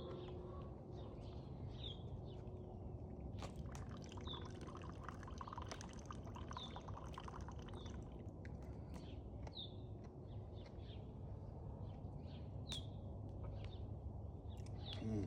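A bird repeating a short, high, falling chirp every second or two over a steady low background rumble. Scattered sharp clicks and a short stretch of fine crackling come through in the middle.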